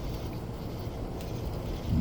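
Low rumble of distant thunder under steady rain, swelling louder near the end, with a few faint drip ticks.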